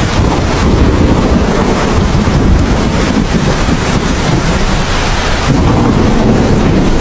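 Heavy steady rain with a low rumble of thunder rolling underneath, swelling a little around a second in and again near the end.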